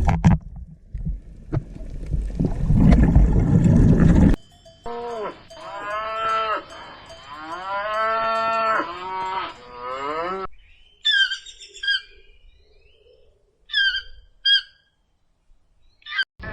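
Domestic cow mooing several times in long calls that rise and fall in pitch, after a few seconds of a rough, low, noisy animal call; near the end come a handful of short, high bird chirps.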